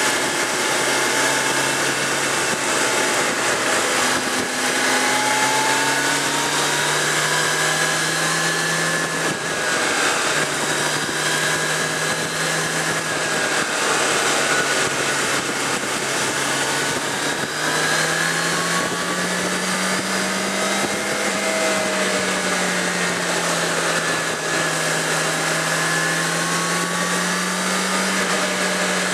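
Suzuki GSX650F's inline-four engine running at steady road revs, its pitch gently rising and falling, under a constant rush of wind.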